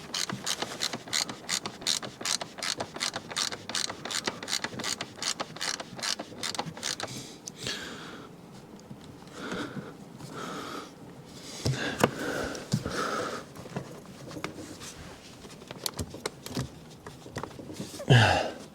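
Hand ratchet clicking steadily, about three or four clicks a second, as a bolt is run down. The clicking stops about seven or eight seconds in, giving way to softer irregular scraping and handling sounds and one loud knock near the end.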